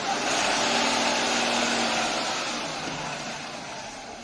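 Truck engine running hard with a dense, hissing mechanical noise, loudest in the first two seconds and then easing off.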